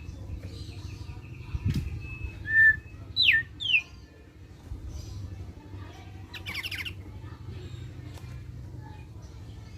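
Thick-billed heleia (opior paruh tebal) calling in short phrases: a held whistle, a short note, then two quick falling whistles about three seconds in, and a brief rapid trill about two-thirds of the way through, over a steady low hum.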